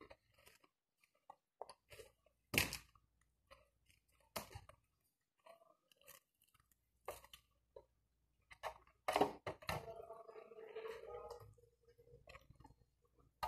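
Close-up chewing and crunching of crispy breaded fried chicken: scattered crunches and mouth sounds, the loudest about two and a half and nine seconds in. A short steady hum follows about ten seconds in.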